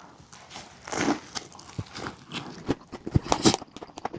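A person biting into a chicken burger and chewing it, with crunching and crackling from the coating close to the microphone. There is a first bite about a second in, then chewing that grows busier near the end.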